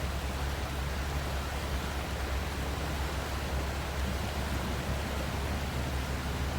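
Steady rushing noise of a rain-swollen creek's flowing water, with a low steady hum underneath.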